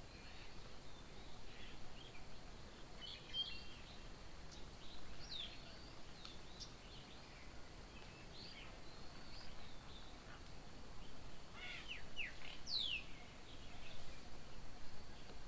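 Several birds chirping and calling in short, high notes scattered throughout, over a steady outdoor background hiss, with a brighter falling whistle near the end.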